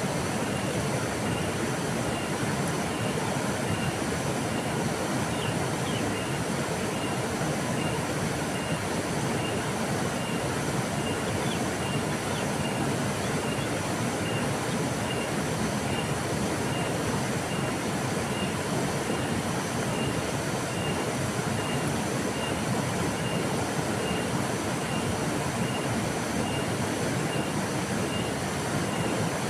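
Steady rushing of a flowing river, an even noise with no change in level. A faint high pip repeats at an even pace throughout.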